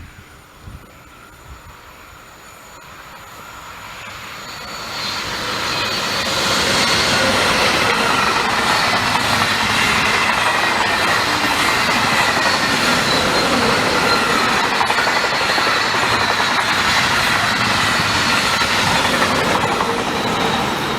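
A train approaching along the line, its noise building over the first few seconds, then passing close by with a steady, loud rolling noise and a faint high whine over it.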